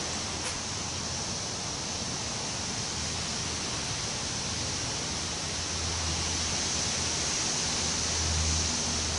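Wind blowing through trees: a steady rushing hiss that swells a little near the end.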